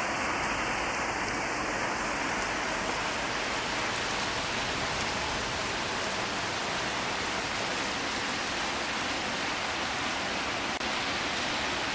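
Heavy downpour falling steadily: a dense, even hiss of rain with no break.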